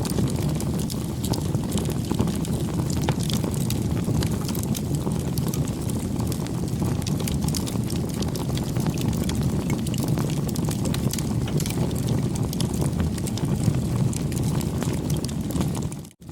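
Campfire burning: a steady low rumble of flames with many small sharp crackles and pops from the burning wood. The sound drops out abruptly for a split second at the very end.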